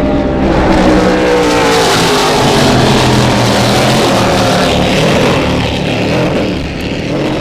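Offshore racing powerboat engines running hard as a boat passes, a dense engine note with a rushing noise over it. It swells about a second in and eases off near the end.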